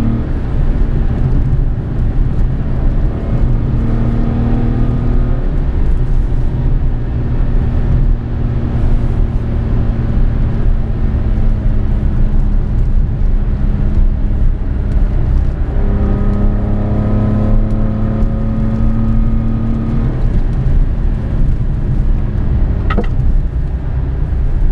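Toyota Aygo's three-cylinder engine, breathing through a K&N intake, heard from inside the cabin while driving. The note pulls under throttle and eases off twice, about five seconds in and again about twenty seconds in, over steady road and tyre rumble. A short sharp click comes near the end.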